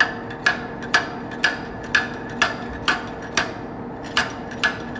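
Repeated metal-on-metal hammer strikes, about two a second, each with a short ringing note, working out a pin from the timing chain tensioner of a Mercedes-Benz M260 engine.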